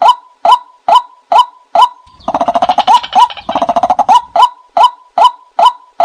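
Recorded call of the nok kai na, a bird lured with played-back calls: a short upward-sliding call note repeated about twice a second. About two seconds in it breaks into a fast rattling run of notes lasting nearly two seconds, then the steady notes resume.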